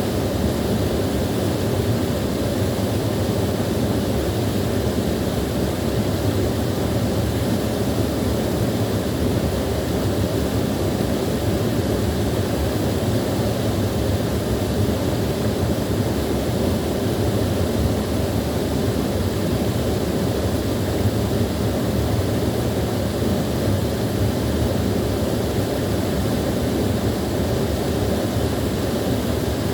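Small waterfall rushing steadily, water pouring and splashing in an even, unbroken roar weighted toward the low end.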